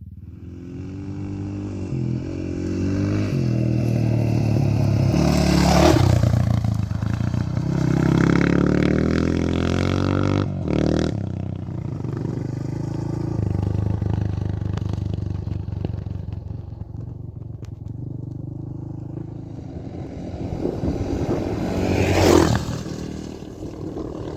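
Honda XR650R single-cylinder four-stroke motorcycle engine running under way, its revs rising and falling with gear changes, with two brief loud rushes of noise, one about six seconds in and one near the end.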